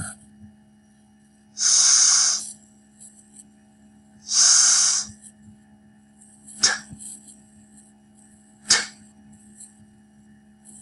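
A man's voice saying isolated English consonant sounds for pronunciation practice: two drawn-out hissing 's' sounds, then two short, sharp 't' sounds about two seconds apart.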